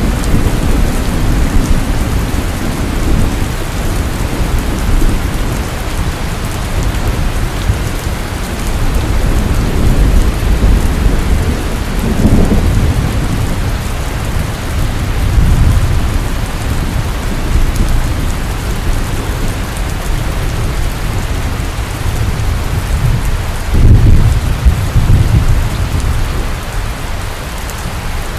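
Heavy rain falling steadily, with thunder rumbling low underneath in several swells, the loudest roll about three-quarters of the way through.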